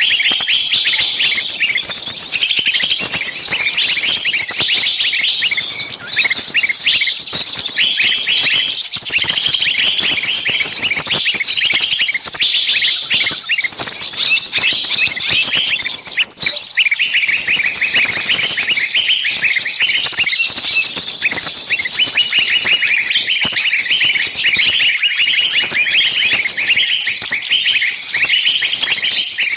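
Dense, continuous chorus of small songbirds' shrill, agitated calls and chirps, many overlapping with no pause. It is a lure recording of small birds screaming as if caught, used to draw other small birds in.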